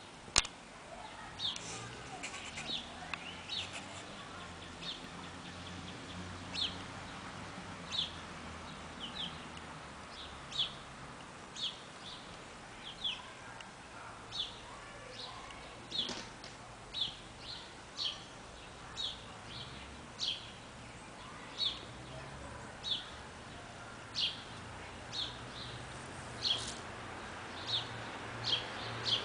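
A small bird chirping over and over, single short high notes about once a second, over a faint steady low hum.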